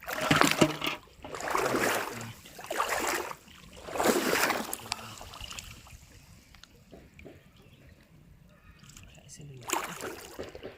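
Water splashing in four short bursts over the first five seconds, then a quieter stretch with one more splash near the end.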